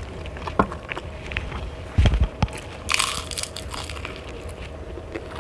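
Close-miked eating: food crunched and chewed between the teeth, in scattered clicks and crackles. A low thump comes about two seconds in, and a short hiss about a second later.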